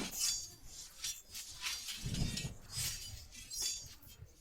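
A scattered run of light, glassy clinks and clatters, like small hard objects striking, with a duller low thump about two seconds in.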